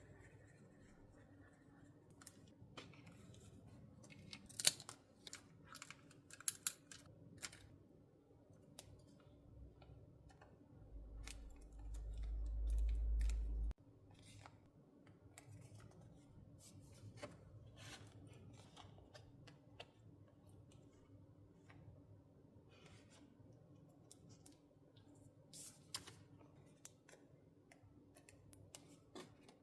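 Scissors snipping paper in short cuts, among scattered small clicks of paper and stationery handling. A loud low rumble builds about eleven seconds in and cuts off suddenly a few seconds later.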